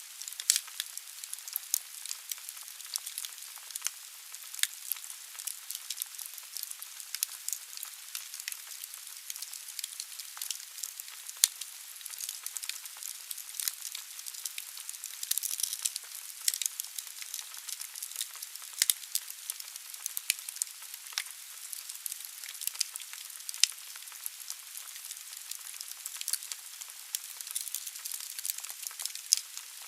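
Wood fire burning in a fireplace: steady hiss with frequent sharp, irregular crackles and pops of burning logs.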